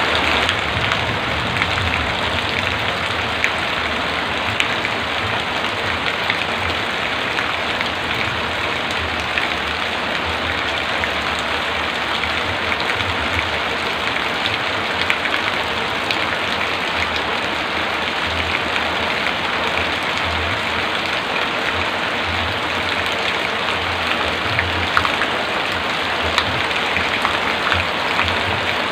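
Heavy rain falling steadily, a dense even hiss with many individual drops ticking sharply on a hard surface.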